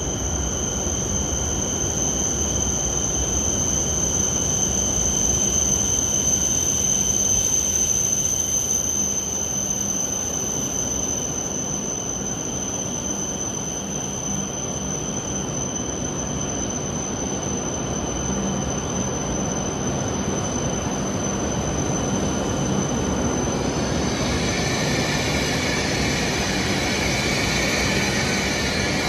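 W7-series Hokuriku Shinkansen train pulling into the platform and slowing to a stop: a steady rumble of the passing cars under a high, steady whine that fades out about two-thirds of the way through. Near the end a hiss rises over the rumble.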